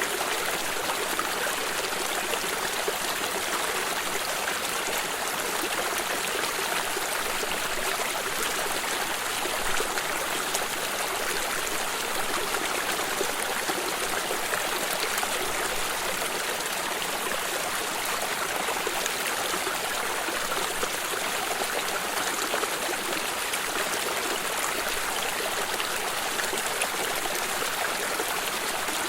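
Flowing stream water running steadily, a continuous trickling, babbling rush.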